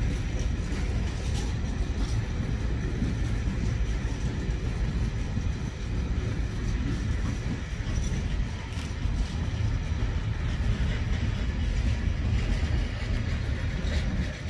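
Freight train of yellow open box wagons rolling past: a steady rumble of steel wheels on the rails.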